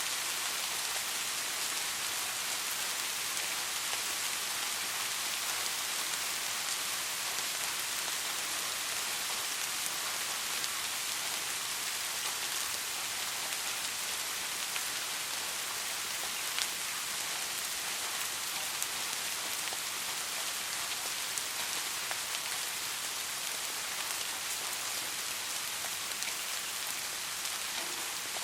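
Steady soft rain falling on a surface, an even hiss with scattered individual drop ticks.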